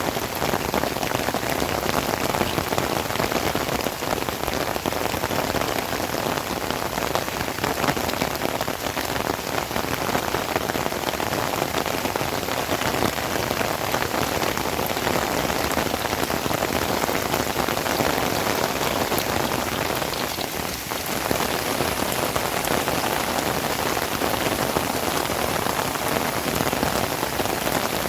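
Heavy rain falling steadily, an even, dense downpour with no let-up.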